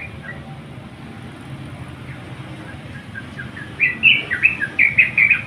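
Yellow-vented bulbul (crucukan) singing: a few soft notes, then about four seconds in a loud, rapid run of short chirping phrases, the vigorous song of a bird calling a rival.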